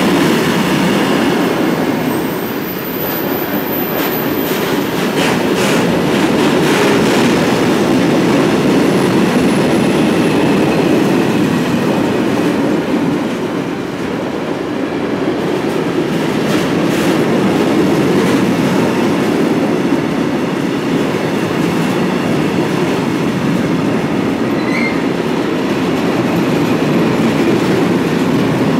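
Long train of loaded bogie tank wagons rolling past at speed: a steady rumble of steel wheels on rail, with a few sharp clacks as the wheels cross rail joints.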